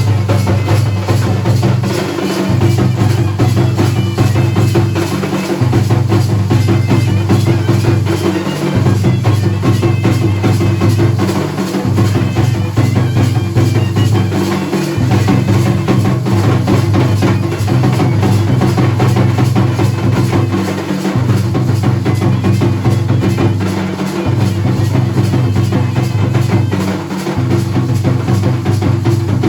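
Dhol and nagada drums played in a fast, dense rhythm. A deep low drum tone drops out briefly about every three seconds, giving a repeating rhythmic cycle.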